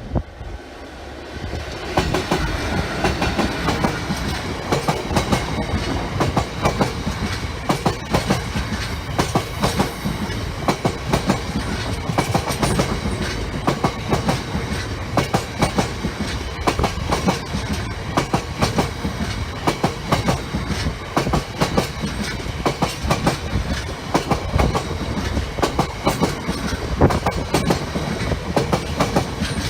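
A train passing close by: its sound swells over the first two seconds, then stays loud with a continuous run of wheel clicks and clatter as the wagons roll over the rail joints.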